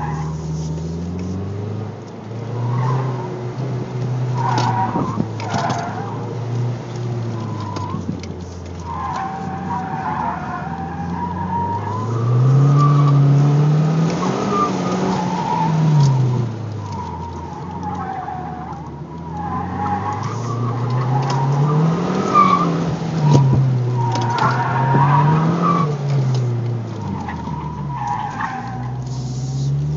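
Heard from inside the cabin: a Mazdaspeed3's turbocharged 2.3-litre four-cylinder engine revving up and falling back again and again as it is driven hard through an autocross course, with the tires squealing in bursts through the turns.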